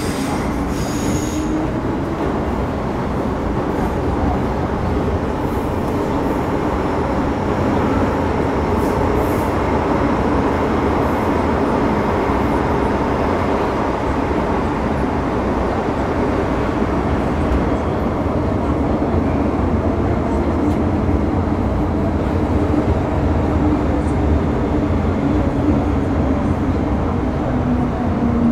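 Interior running noise of an MTR Metro Cammell M-Train (car C162) with GEC GTO chopper traction, travelling at speed: a steady, loud rumble of wheels on rail with a faint low tone from the traction equipment that dips slightly near the end.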